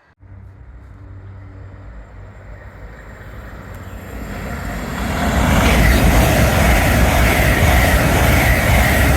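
Class 801 Azuma train approaching and passing through the station at speed: a rumble builds from about three seconds in and becomes a loud rush of wheels on rail, with a faint whine, a couple of seconds later.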